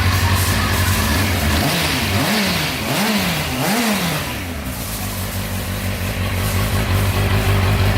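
Triumph TT600's inline-four engine idling, then blipped three times in quick succession about two seconds in, each rev rising and falling back, before settling to a steady idle again.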